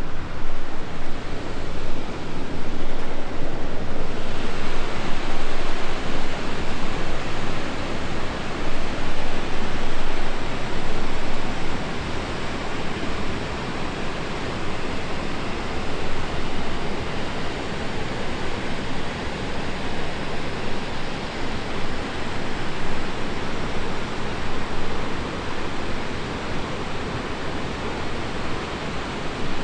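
Steady rush of fast-flowing river water, a continuous loud hiss with no distinct splashes. It changes a little in tone about four seconds in and drops slightly in level after about twelve seconds.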